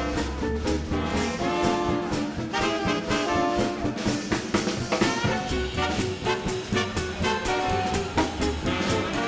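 Live swing band playing an instrumental passage: trumpet, trombone and saxophones over drums and upright bass, with a steady beat.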